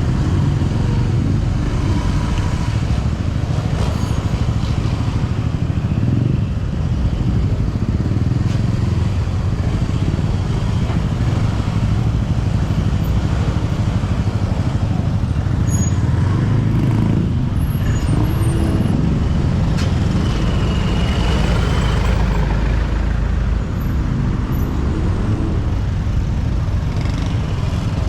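City road traffic, with motorcycles and cars running close by, heard from a moving bicycle over a steady low rumble. A brief faint high squeal comes about twenty seconds in.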